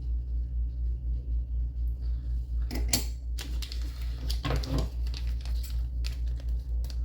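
Silver rounds being set into a coin tube, a few sharp metallic clicks and clinks around the middle and later part. Under them runs a steady low hum that throbs about four times a second.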